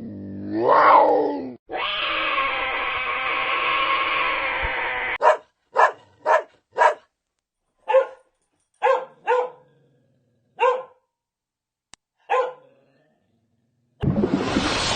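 A dog barking: about nine short, sharp barks at uneven intervals over several seconds. Before them comes a brief animal call that rises and falls, then a rough, steady sound lasting about three and a half seconds.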